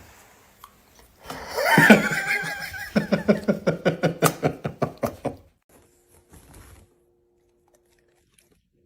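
Vocal sounds: a pitched cry that rises and falls about two seconds in, then a quick run of short pitched pulses, about five a second, that stops suddenly.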